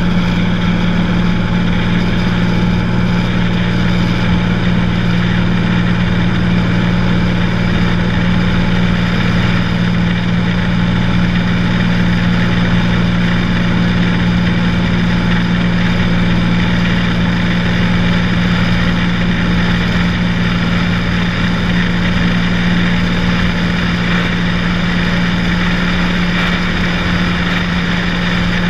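Cessna 182's single piston engine and propeller droning steadily in flight, holding a constant pitch and level.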